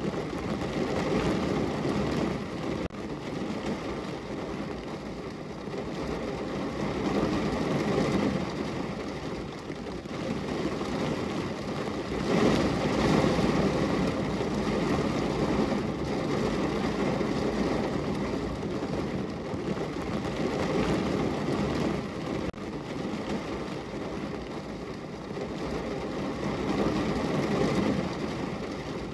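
Steady rain falling on a window: a dense, even rush of raindrops that swells and eases, loudest about twelve seconds in.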